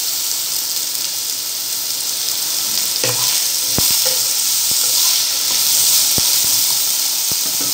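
Diced potatoes sizzling steadily as they fry in oil in a non-stick wok, with a few light knocks from a wooden spatula stirring them against the pan.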